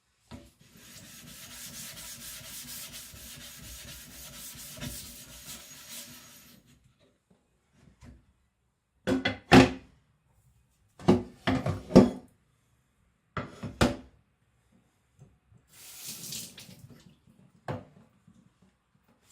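Water running from a tap for about six seconds, typical of rinsing a whetstone or blade. It is followed by a series of loud, sharp knocks and clatters, several in quick succession.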